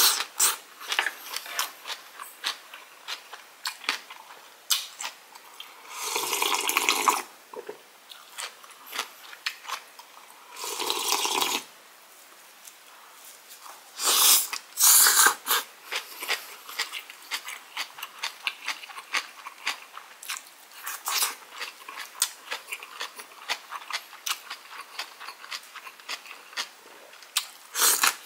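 Close-miked wet chewing and crunching of green onion kimchi (pa-kimchi), a dense run of small mouth and teeth clicks. Two longer noisy stretches of about a second each come around six and eleven seconds in, and there are louder bites around fourteen to fifteen seconds.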